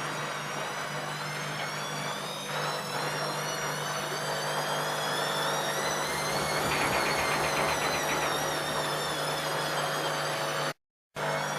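ELIN A 100 E washing machine running: a motor whine that wavers slightly in pitch over a steady low hum and a rushing noise, cutting out briefly near the end.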